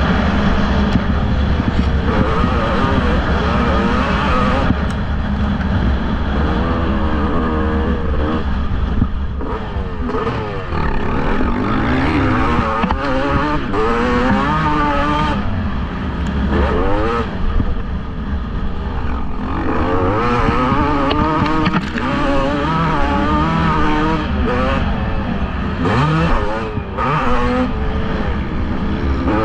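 Several motocross bikes racing, their engines revving up and down in overlapping rises and falls as they accelerate and shift.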